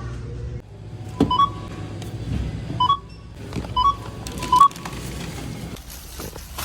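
A car's low running rumble stops about half a second in. Then come four short electronic beeps, each a quick two-note chirp stepping up in pitch, about a second apart.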